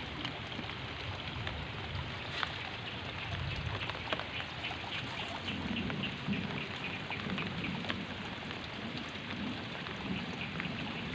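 Steady rain falling, with many scattered drop ticks.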